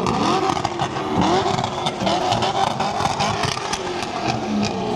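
Car engines revving up and down hard while doing donuts, with continuous tyre noise and sharp exhaust pops.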